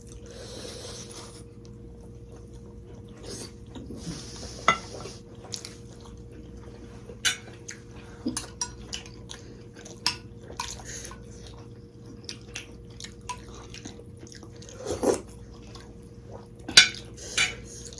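Close-miked eating sounds: scattered clinks of spoons and cutlery against bowls and plates, with chewing and a few short sips or slurps of soup, over a faint steady hum.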